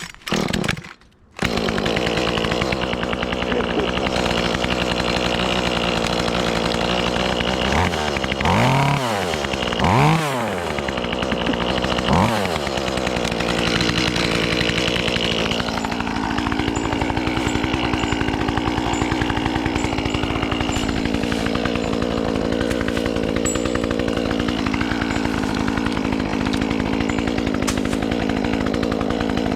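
Echo CS-2511T top-handle two-stroke chainsaw being pull-started cold and catching after about a second and a half. It then warms up at idle, is revved three times around the middle, and settles back to a steady idle.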